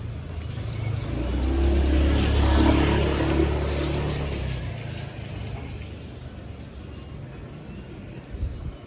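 A motor vehicle passing close by on the street: its engine and tyre hiss swell over a couple of seconds and then fade away.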